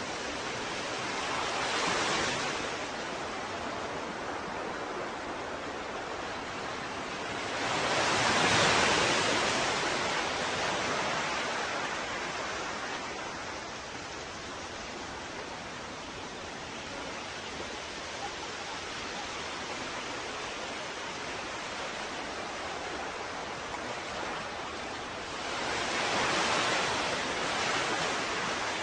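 Ocean waves washing onto a shore over a steady hiss of surf, with three larger waves swelling and fading, the biggest about eight seconds in.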